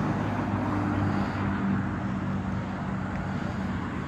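A car's engine running at a steady speed with road and wind noise, as when driving along.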